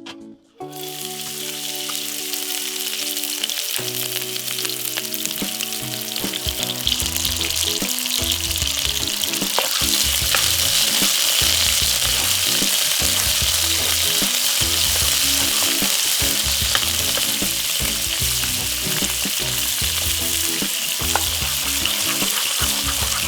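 Food sizzling in a hot pan, the sizzle building over the first several seconds and then holding steady and loud, with occasional sharp clicks.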